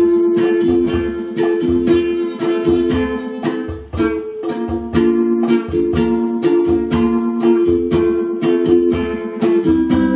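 Ukulele strummed in chords at a steady, unhurried pace, with a short break about four seconds in. It is played by a beginner about three months into lessons.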